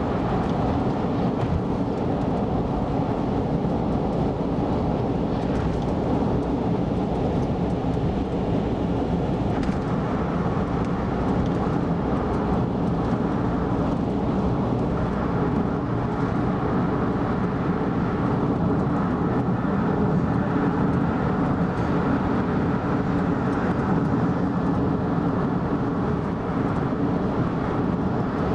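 A car driving at steady speed on an expressway: continuous engine and tyre noise with no change in pace.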